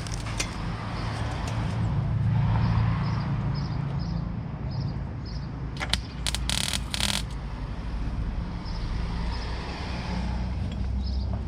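Gas-shielded MIG welder putting a short tack weld on a steel patch panel: a few sharp clicks, then about a second of crackling arc about six seconds in. A steady low rumble of wind on the microphone runs underneath.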